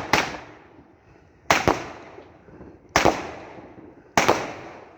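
A 16-shot firework cake firing its shots one after another: sharp bangs, mostly in close pairs, about every second and a half, each dying away.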